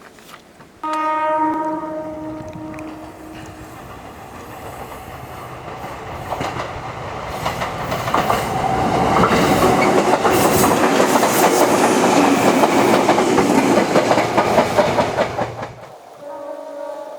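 Fujikyu electric train sounding its horn once, about a second in, then passing close by over the crossing. The wheels clatter over the rail joints, growing louder until they cut off near the end, and another horn-like tone starts just after.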